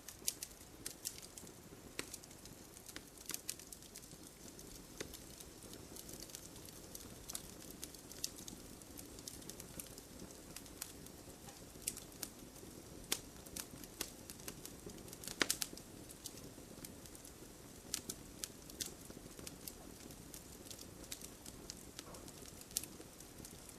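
Wood fire crackling, with irregular sharp pops and snaps over a low steady hiss of burning; a quick cluster of louder pops about fifteen seconds in.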